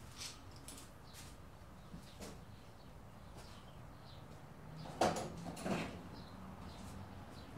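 Scattered clicks and knocks of wood and tools being handled, with two louder knocks about five seconds in.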